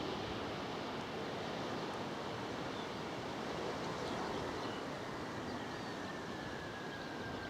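Steady distant rushing noise of the Avro Vulcan bomber's jet engines on approach, with a faint whine setting in about five seconds in and slowly falling in pitch.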